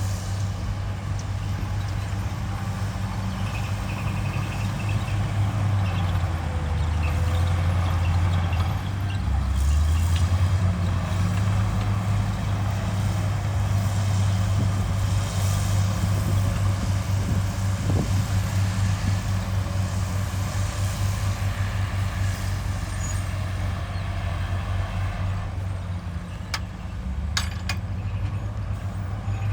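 Heavy diesel earthmoving machinery (bulldozer and dump trucks) running with a steady low drone, its pitch shifting as the load changes. A few sharp clicks or knocks come near the end.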